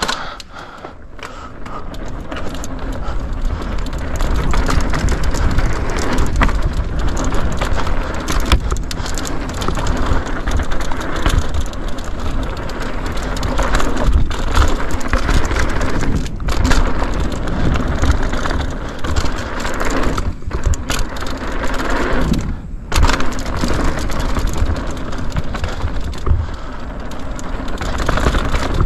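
Mountain bike descending a dirt downhill trail at speed: a loud, continuous rumble of tyres on dirt and the bike rattling over bumps, dropping away briefly a few times.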